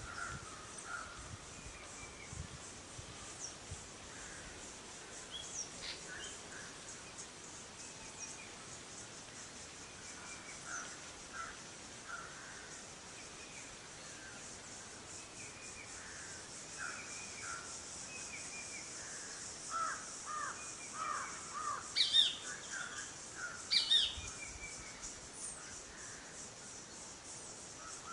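Wild birds calling: short scattered calls throughout, then two louder, sharp calls about two seconds apart near the end. A steady high-pitched pulsing buzz runs underneath.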